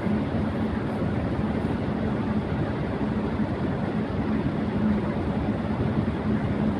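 Electric fan running at high speed: a steady whooshing of air with a low motor hum underneath.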